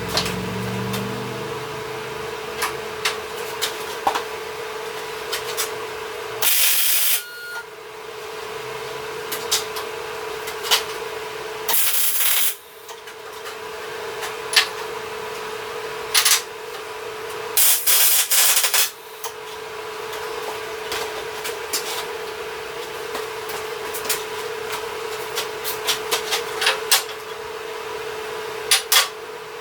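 Three short welding tacks on steel tubing, each about a second of loud crackling hiss, about six and a half, twelve and seventeen and a half seconds in. A steady hum and scattered small clicks fill the gaps between them.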